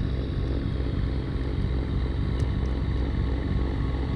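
Diesel tractor with a front-mounted snowblower running steadily, clearing deep snow.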